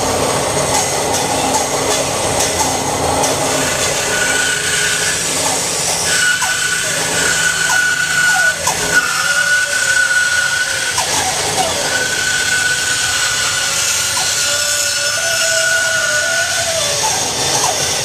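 Bandsaw fitted with a 1/2-inch 4 TPI hook blade running and resawing a 1-inch board lengthwise. A steady high whine comes in about four seconds in as the blade cuts, stopping and starting a few times over the motor and blade noise.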